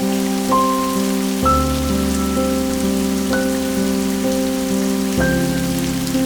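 Steady rain falling, an even hiss with scattered drop ticks, mixed with soft instrumental music: sustained notes, a slow melody stepping to a new higher note every second or two over held low notes that change twice.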